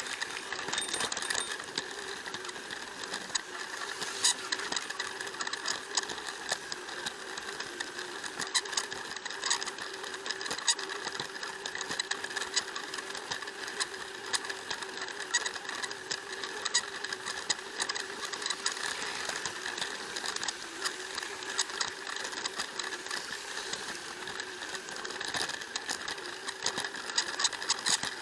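Plarail toy train's small battery motor and plastic gearbox running with a steady whine, with wheels clicking and rattling over the plastic track joints.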